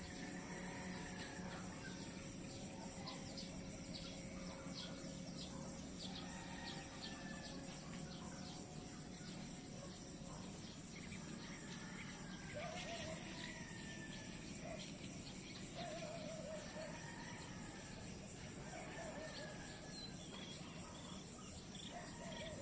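Outdoor nature ambience: insects such as crickets chirping steadily, with birds giving short calls several times in the second half.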